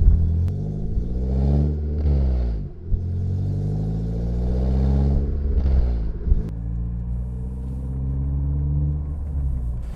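Renault Sandero RS's 2.0-litre four-cylinder engine, fitted with a sports cold-air intake, pulling away gently and accelerating through the gears. The revs rise, drop at a gear change about two and a half seconds in, rise again, drop at a second change just past six seconds, then climb slowly.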